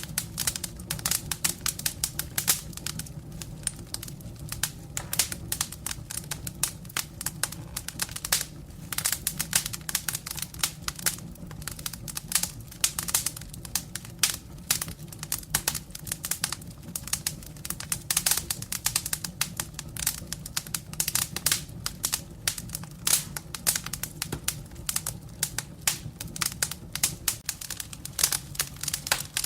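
Firewood burning in a fireplace: dense, irregular crackling of the logs over a steady low rush of the flames.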